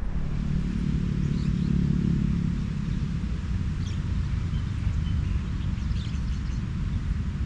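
A steady low rumble, with a humming tone over it for the first two seconds or so, and a few short bird chirps.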